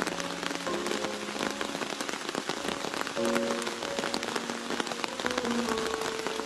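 Heavy rain falling steadily, a dense hiss of countless drops. Soft background music of long held notes plays underneath.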